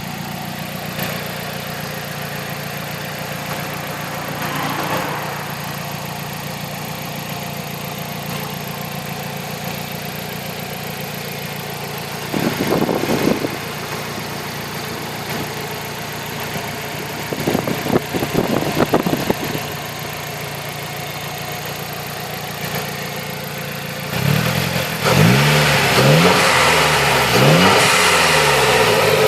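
Nissan CA18DET turbocharged 1.8-litre four-cylinder engine idling steadily. It is blipped briefly about twelve seconds in and again a few times around eighteen seconds, then revved up and down repeatedly and louder over the last five seconds.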